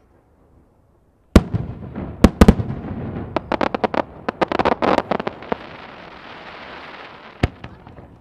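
Fireworks bursting. After about a second of quiet there is a loud bang, then two more bangs a second later, then a rapid string of sharp crackling pops over a hissing fizzle that slowly fades, and a single bang near the end.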